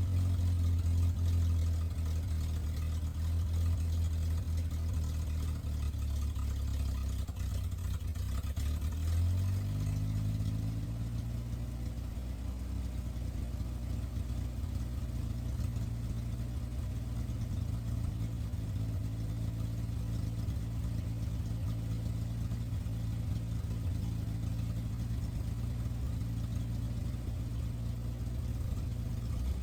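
1968 Chevy C20's inline-six idling on its freshly rebuilt Rochester Monojet carburetor. The idle speed shifts about seven to ten seconds in, then settles. The engine is on a rough starting tune with the idle not yet set right.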